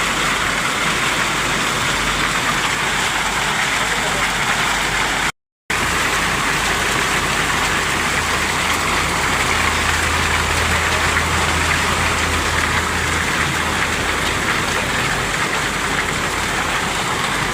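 Heavy rain falling as a steady, even hiss, cut off for a split second about five seconds in. A low steady hum runs underneath for several seconds after the break.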